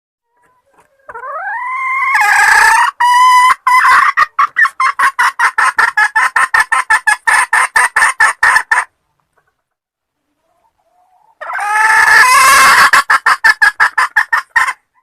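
Junglefowl hen calling: a rising note that breaks into a fast run of clucks, about five a second. A second, shorter bout of the same call comes near the end. This is the hen's call to attract a male.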